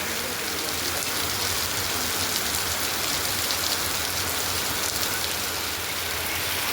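Heavy rain falling steadily: an even hiss dotted with the fine ticks of individual drops striking.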